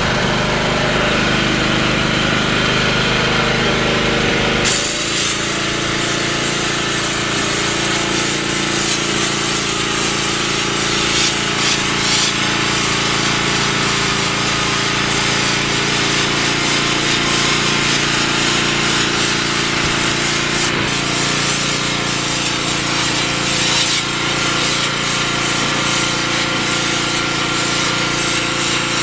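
Engine-driven pressure washer running steadily. About five seconds in, the spray starts: a loud, continuous hiss of the sand-injected water jet blasting the surface over the engine drone, with a few brief dips.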